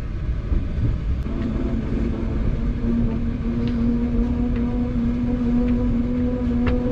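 Passenger train running on the track: a steady low rumble, with a low hum that comes in about two seconds in and holds, and a few faint ticks.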